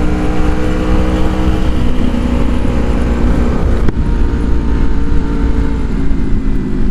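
Honda VFR's V4 engine running under way, its steady engine note shifting down about two seconds in and again about four seconds in, with a brief click at the second change. Wind rushes heavily over the microphone throughout.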